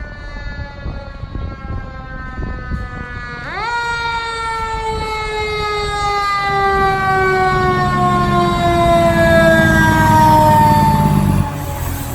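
Fire engine siren with the truck's engine underneath. The siren's pitch falls slowly, jumps sharply up about three and a half seconds in, then winds slowly down again. The engine rumble grows louder as the truck approaches and drops off suddenly near the end.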